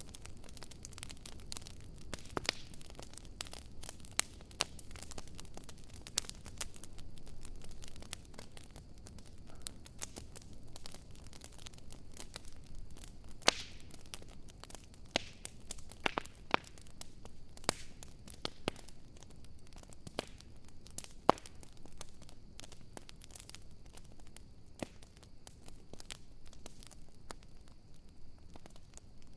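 Wood bonfire burning and crackling: irregular sharp pops and snaps over a soft hiss, with a few louder pops scattered through.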